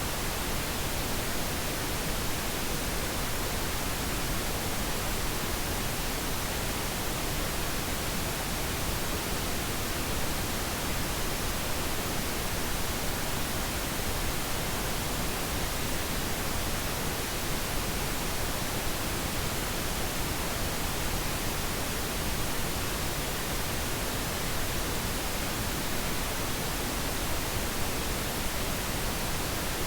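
Steady, unchanging pink noise, an even hiss spread across all pitches with no events, used as a sleep aid.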